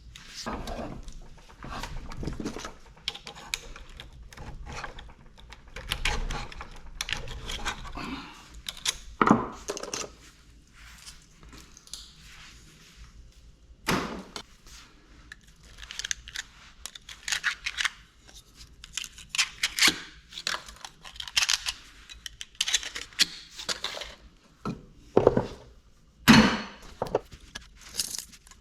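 Hand work on scrap electric motors: irregular metallic clicks, knocks and scraping as parts and copper windings are handled and worked loose, with a few sharper knocks.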